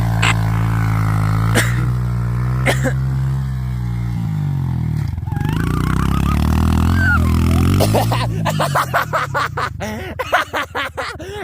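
Dirt bike engine running at a steady idle with a few sharp clicks, then revving up and down from about four seconds in as it pulls away, turning choppy and fading near the end.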